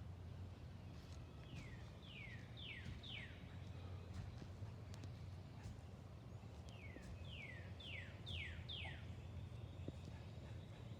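A bird singing two phrases of quick downslurred whistles, four notes about a second and a half in and five more near the middle, over a steady low outdoor hum.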